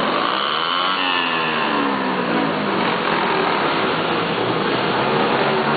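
Motorcycle engines running as they ride past, one engine's pitch rising and then falling over the first two seconds, over a steady, dense din.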